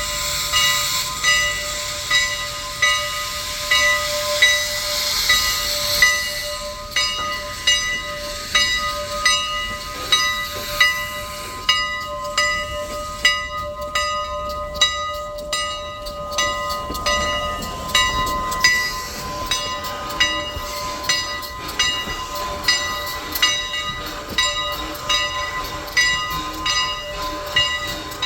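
Steam locomotive's bell ringing steadily, about one stroke every three-quarters of a second, each stroke ringing on. Steam hisses along with it for the first six seconds or so.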